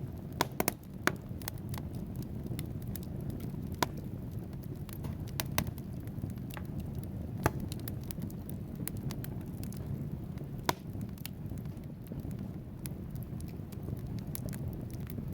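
Wood fire burning in a fireplace: a steady low rumble of flames with sharp pops and snaps from the burning logs. A cluster of loud pops comes about a second in, and single pops break through every few seconds after that.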